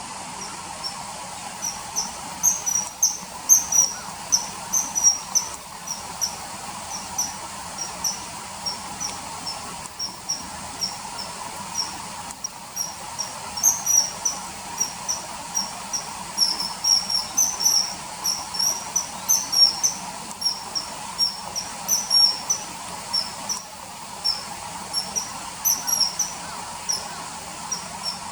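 Common kingfisher calls: short, shrill, very high chirps repeated in irregular runs throughout, over a steady background hiss.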